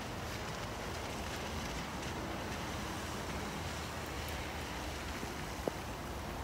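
Steady hiss of hard rain falling, with one sharp click about five and a half seconds in.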